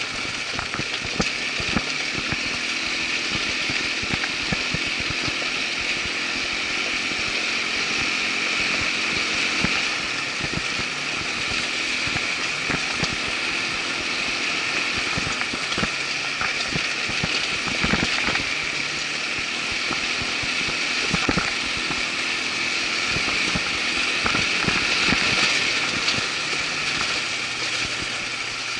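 Irbis ATV 200 quad bike's engine running steadily while riding a trail, with frequent short knocks and rattles from the rough ground.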